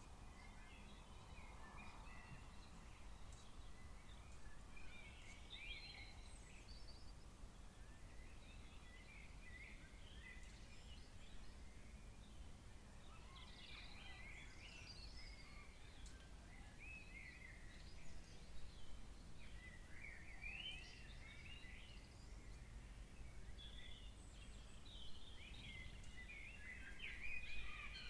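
Birds calling faintly in short scattered chirps, several overlapping, with a busier flurry near the end, over a low steady background rumble.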